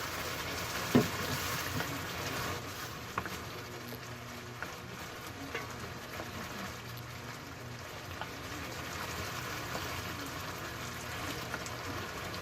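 Chicken stock sizzling and simmering in a pan of toasted farro and shallot: a steady hiss with small scattered pops. A single knock about a second in.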